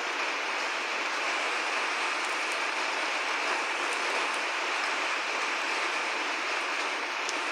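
Steady heavy rain: a dense, even hiss with a few faint drip ticks. There is no thunder in it.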